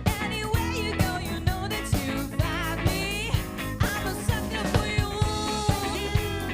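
Live funk and soul band playing an up-tempo groove, the drum kit keeping a steady beat of about two hits a second under gliding melody lines.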